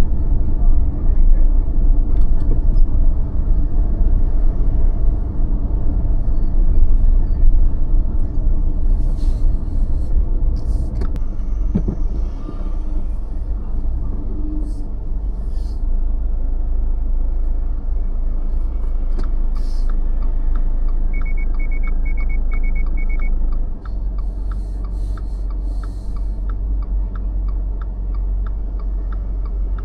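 A car driving slowly through city streets: a steady low rumble of engine and road, heavier in the first half. From about halfway a regular ticking comes in at about two a second, and a short run of six quick high beeps sounds about two-thirds of the way through.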